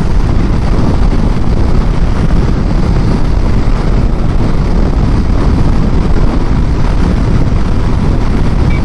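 Riding noise on a Honda CB500X motorcycle: loud, steady wind buffeting on the microphone, mixed with the motorcycle running. It is an even rumble with no clear breaks.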